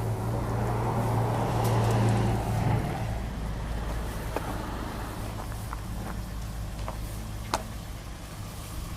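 2009 Toyota Noah's four-cylinder petrol engine running, louder for the first three seconds and then settling to a steady idle, with a few faint ticks.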